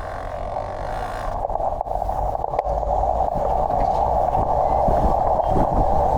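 Wind and road noise from a road bike being ridden on a wet road. It is a steady rushing sound that slowly grows louder.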